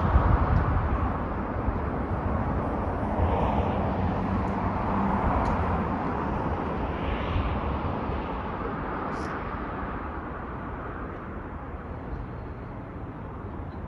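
Road traffic: a vehicle's tyre and engine noise, loudest at the start and fading steadily as it moves away.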